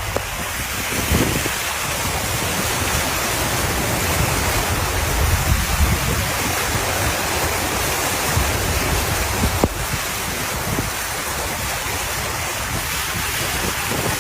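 Steady rushing noise of deep floodwater moving around vehicles, with a single sharp click about ten seconds in.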